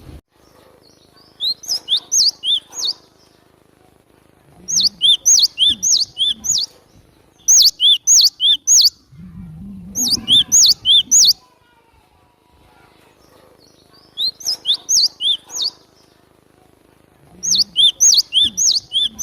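Cinereous tit (glatik batu) singing: six phrases of rapidly repeated high whistled notes, each phrase lasting one and a half to two seconds with short pauses between. It is used as a lure call to attract wild birds of the same species. A low rumble comes under the fourth phrase, about ten seconds in.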